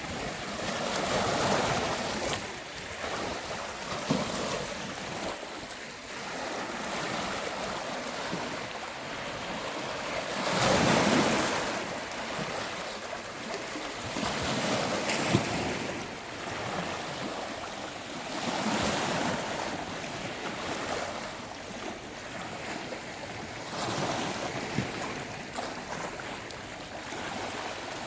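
Sea waves breaking and washing on a beach, the surge rising and falling every few seconds, one wave louder than the rest about a third of the way in. Wind buffets the microphone.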